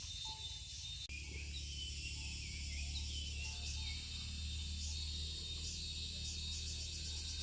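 Insects shrilling and trilling, with short bird-like chirps in the first half, over a steady low hum.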